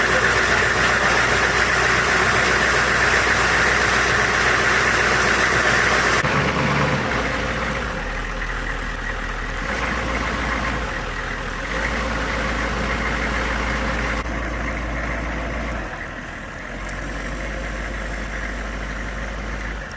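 A vehicle engine running steadily under a noisy hiss, which changes abruptly several times.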